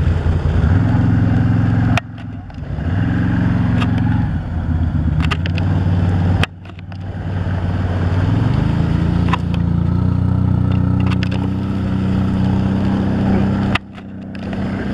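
Off-road vehicle engines (ATVs and a side-by-side) running through water, the revs climbing about a third of the way in. The sound breaks off and resumes abruptly three times.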